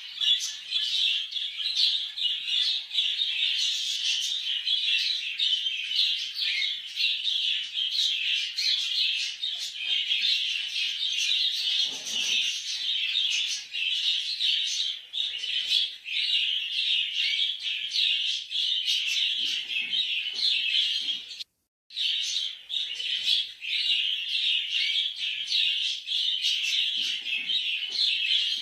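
Cockatiels chirping in a dense, continuous chatter of high calls, cutting out for a moment about three-quarters of the way through.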